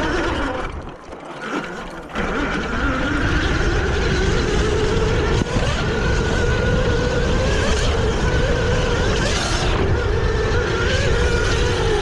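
Dirt bike engine running hard on the track, easing off briefly about a second in, then back on the throttle with its pitch wavering as the revs rise and fall through the gears.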